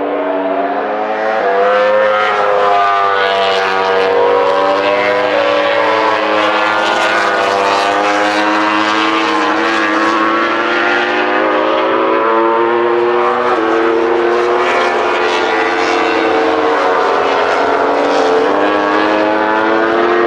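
Several MotoGP racing motorcycle engines running at high revs at once, their pitch rising and falling and stepping through gear changes as the bikes accelerate and brake around the circuit.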